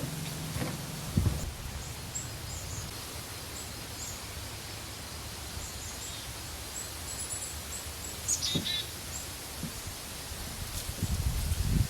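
Outdoor ambience with small birds giving short, high chirps scattered throughout and one quick descending trill about eight seconds in. A low rumble comes about a second in and again near the end.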